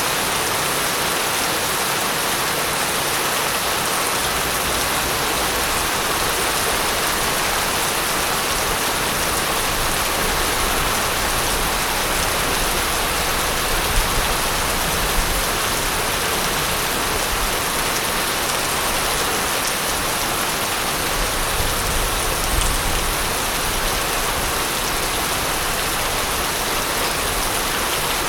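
Steady, heavy rain falling on a surface, with a few louder individual drops or taps near the middle.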